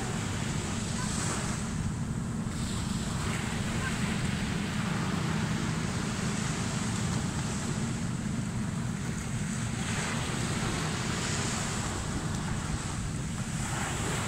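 Ocean waves surging and washing up the beach in slow swells, with wind buffeting the microphone in a steady low rumble.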